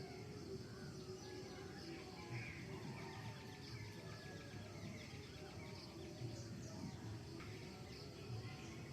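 Faint, soft bird chirps and twittering, many short calls scattered throughout, over a low steady background noise.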